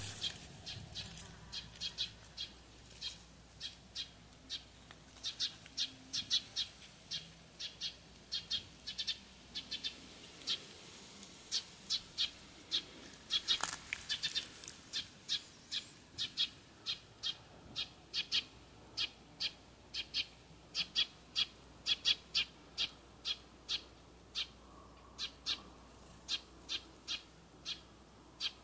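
A small bird chirping over and over, short high chirps about two a second, often in pairs.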